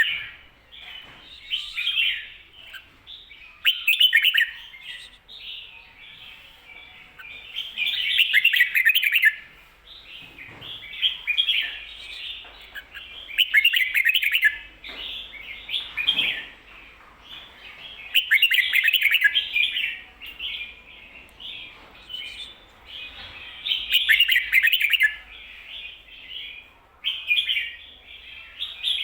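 Red-whiskered bulbul singing its doubled 'kho-ta-ra' song: bright, chattering phrases, with louder bursts about every five seconds and softer phrases between.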